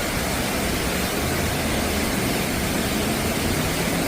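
Heavy rain: a steady, even rushing noise with a low rumble underneath.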